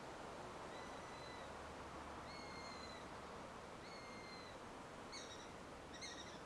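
Eurasian sparrowhawk calling: three drawn-out, thin, level whistled notes a second or so apart, followed by two short, broken notes near the end.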